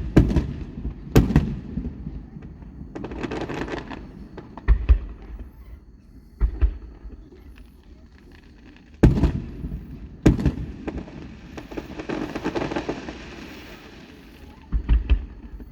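Aerial fireworks bursting: a series of sharp bangs and deep booms, about seven in all, with two longer spells of crackling in between.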